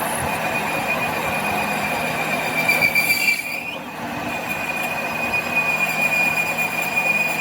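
Steady high-pitched metallic squeal over a bed of machine noise, dipping briefly about halfway through and then carrying on.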